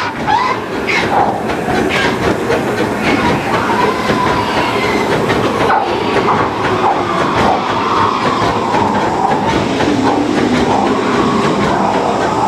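Cab of the 1925 Baldwin steam locomotive Ernest S. Marsh under way, its wheels clattering steadily over the rails. It is running on the steam left in the boiler with the fire shut off.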